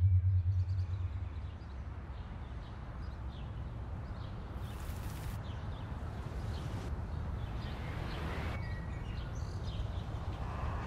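A low drone fades out in the first second or so, leaving outdoor ambience: a steady low rumble with scattered short bird chirps and two brief bursts of hiss.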